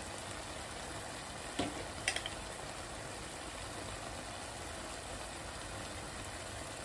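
Onions and spices sizzling steadily as they fry in a pan, with two short clicks about one and a half and two seconds in.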